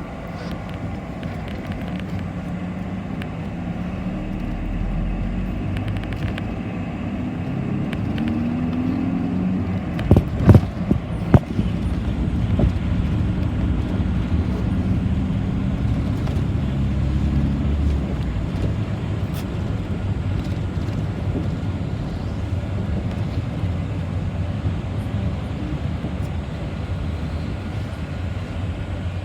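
City bus engine running while under way, heard from inside the bus, its pitch shifting gently as it drives. Two or three sharp knocks come about ten seconds in and are the loudest sounds.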